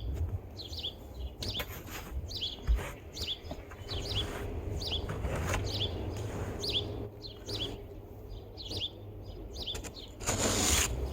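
A small bird chirping over and over, short high falling notes about once or twice a second. Near the end there is a louder rough scraping noise.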